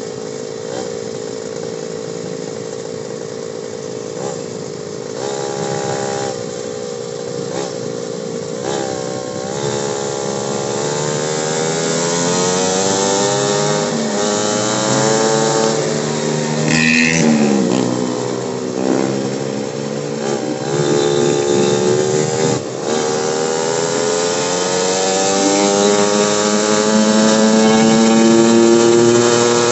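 Motorcycle engine heard on board a moving bike, over a haze of road and wind noise. The engine note holds steady at first, climbs as the bike speeds up, drops back around the middle, then climbs again near the end. A brief high-pitched sound cuts in about two-thirds of the way through.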